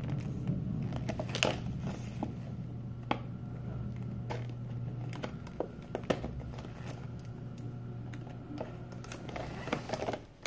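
Plastic blind-bag packaging handled and crinkled, with scattered small clicks and taps, over a steady low hum that stops near the end.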